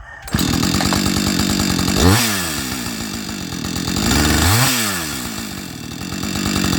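Husqvarna 555 two-stroke chainsaw engine catching about a third of a second in and running, started with only light pressure on the throttle trigger so it doesn't choke out. Its engine speed swings briefly twice, about two and four and a half seconds in.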